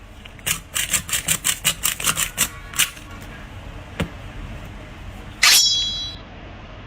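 A quick run of sharp clicks, about five a second for two to three seconds, then a single click, and a short bright ringing tone that fades within a second.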